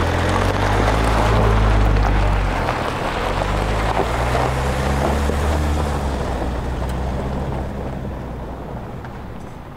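Sound effect of a motor vehicle engine running and driving off, a low rumble that fades away over the last few seconds.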